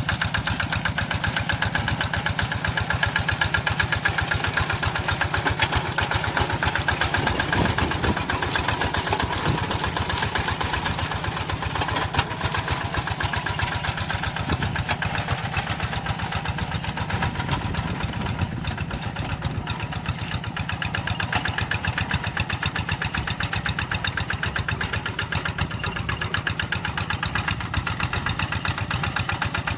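Tractor engine running steadily, with an even, rapid firing beat.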